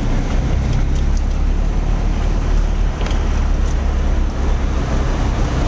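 A vehicle driving slowly through floodwater: a steady low engine rumble under a continuous wash of water and road noise.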